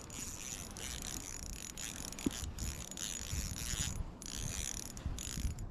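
Small ice-fishing reel being cranked in several runs with brief pauses, winding up line on a hooked fish, a crappie.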